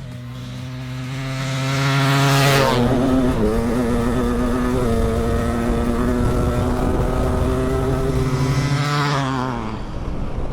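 Big-bore two-stroke dirt bikes, a YZ500 and a 700cc two-stroke, racing flat out from a drag-race start. The engine note builds over the first couple of seconds, shifts in pitch about three seconds in, holds steady, then fades near the end.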